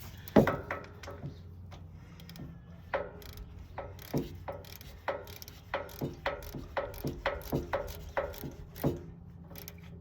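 Ratchet and spark plug socket clicking as a spark plug is snugged down in a 1970 VW Beetle engine. There is a sharp knock about half a second in, then runs of ratchet clicks, about two to three a second, from about three seconds in.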